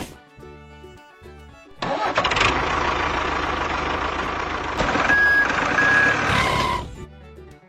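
A vehicle engine starting and running for about five seconds, with two short high beeps near the end, over soft background music.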